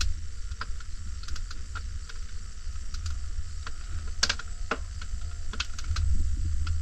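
Burning oak firewood crackling, with irregular sharp pops scattered over a steady low rumble.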